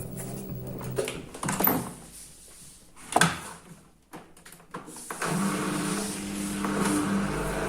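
Washing machine running: its motor hum stops about a second in, a few clunks and knocks follow with one loud knock near the middle, and the motor hum starts up again about five seconds in.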